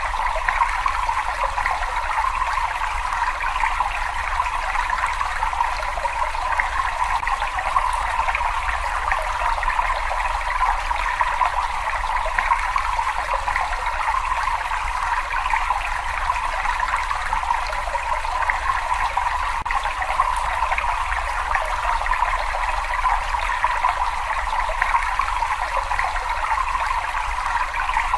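Steady running, trickling water, an even rush without breaks or single drips standing out.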